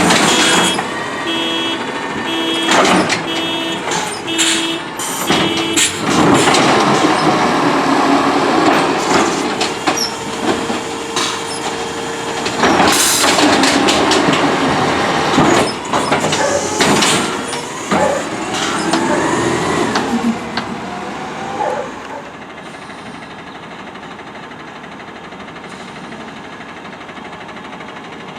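CNG Autocar ACX garbage truck with an Amrep automated side-loader arm at work: its reversing alarm beeps in a steady on-off rhythm for the first few seconds. Then come hydraulic whines rising and falling, knocks and clanks, and sharp air-brake hisses. Near the end it settles to the engine running steadily and more quietly.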